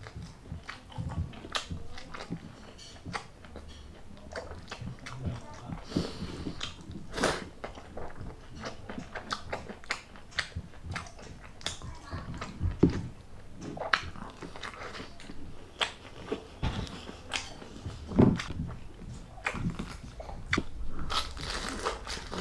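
A person eating: chewing and biting into crispy fried food, with irregular crunches and sharp mouth clicks.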